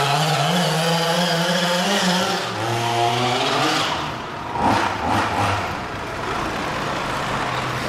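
26cc two-stroke gasoline engine of a 1:5 scale RC buggy running and revving, its pitch holding steady at first, then dropping about four seconds in and rising and falling repeatedly with the throttle.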